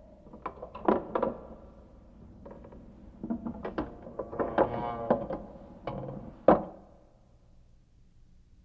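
Irregular mechanical clicks, rattles and clunks, like a latch or mechanism being worked, growing busier through the middle. One sharp knock comes about six and a half seconds in.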